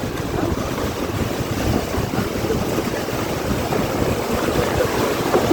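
Strong wind blowing hard, a rushing noise that buffets the microphone in uneven gusts.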